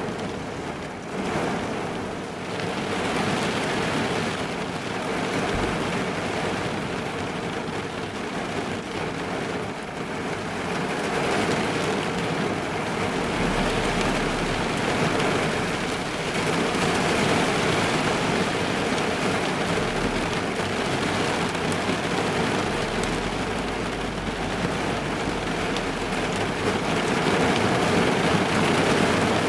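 Rain falling on a car's roof and windows, heard from inside the car: a steady, dense patter that grows a little louder about a third of the way through.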